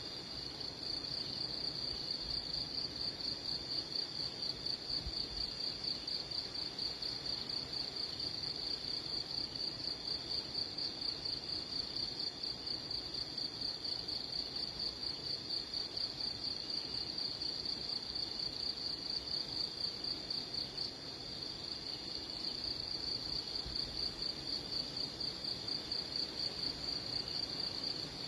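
A continuous high-pitched trill, pulsing quickly and evenly without a break, like an insect's.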